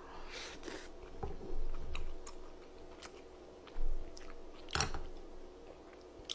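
A person chewing a mouthful of tteokbokki, fish cake and chewy rice cake in spicy sauce, close to the microphone: wet mouth sounds and small smacks, with a sharp click about three-quarters of the way through.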